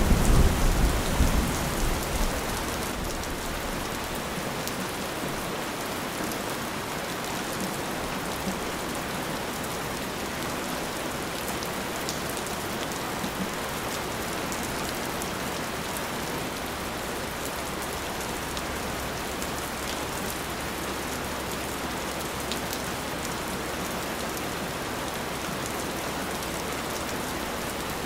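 Steady heavy rain falling, with a low rumble of distant thunder dying away in the first couple of seconds.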